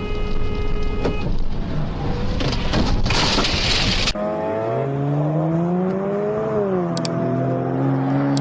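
Car noise: loud road or wind rumble with a steady tone that stops about a second in. After a cut about four seconds in, a car engine's note rises, drops back and then holds steady.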